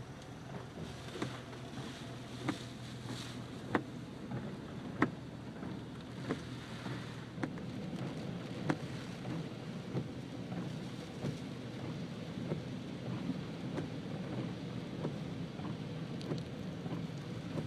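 Heavy rain on a car, heard from inside the cabin, over the low hum of the car on a wet road, with a sharp click about every second and a quarter.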